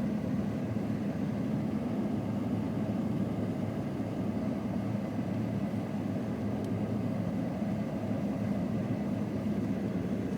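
Steady engine and road noise heard inside the cab of a 2006 Ford F-150 pickup cruising along, a low, even rumble with no change in speed.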